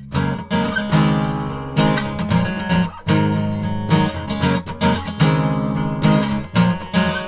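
Acoustic guitar strummed in a steady rhythm, an instrumental intro before the singing comes in.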